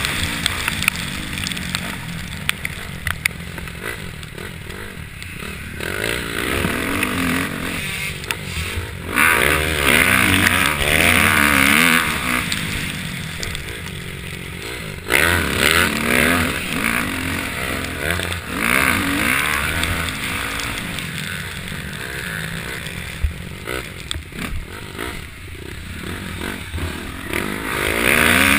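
Motocross bike engine revving up and easing off again and again, its pitch climbing and dropping as it runs through the gears. Stretches of loud rushing hiss come in with the hard-throttle runs.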